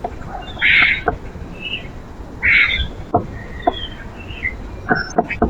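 Birds at a backyard feeder: two loud, rough calls about two seconds apart, with shorter chirps between them and scattered sharp clicks, several in quick succession near the end.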